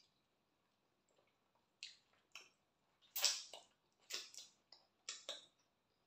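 Close-up wet eating sounds: a series of short, squelching mouth smacks and chews as kokonte with slimy okra stew is eaten by hand, about six in quick succession over a few seconds.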